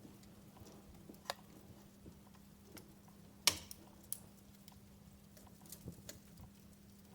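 Wood fire in a fireplace crackling: sparse snaps and pops over a quiet background, the loudest pop about halfway through.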